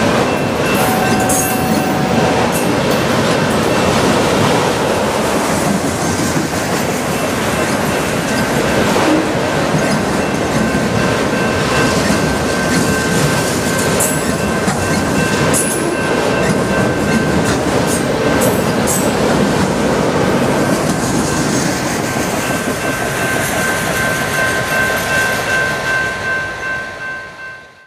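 Freight train of autorack cars rolling past at speed: a dense steady clatter of wheels on rail with a few sharp clicks and a steady high squeal running through it. The rumble fades quickly in the last few seconds as the end of the train goes by.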